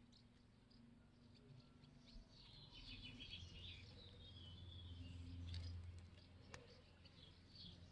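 Near silence: faint bird chirping in the background, with a low hum through the middle and one faint click near the end.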